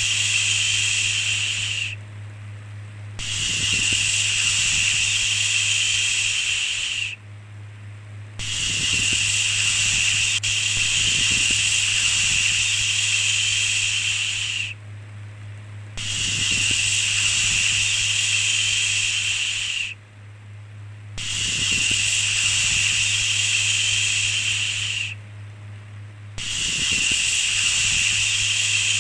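A repeated long 'shhh' shushing sound: six hissing shushes of a few seconds each, separated by pauses of about a second, over a steady low hum.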